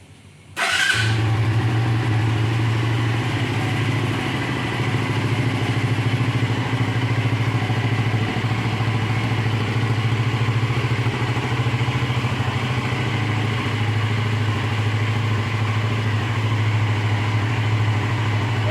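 Suzuki FXR motorcycle idling steadily through its original stock exhaust, coming in about half a second in.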